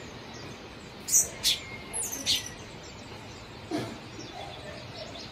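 Birds chirping: a few short, high calls that fall in pitch, over a steady background hiss, with a soft knock about two-thirds of the way through.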